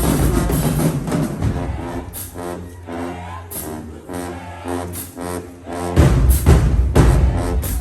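High school marching band playing, with brass and drums. A full loud passage gives way to short repeated horn blasts, and about six seconds in heavy low hits from the bass drums and low brass come back in.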